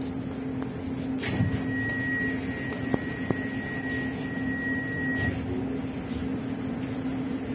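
Ivolga EG2Tv electric train running, heard from inside the carriage as a steady low hum. A thin, high, steady whine starts a little over a second in and stops about four seconds later, with two sharp clicks during it.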